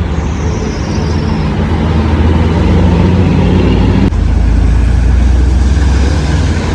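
Road traffic, cars and buses, running past on a rain-soaked road in heavy rain, with tyre spray and a steady hiss of rain. Strong wind buffets the microphone with a heavy low rumble.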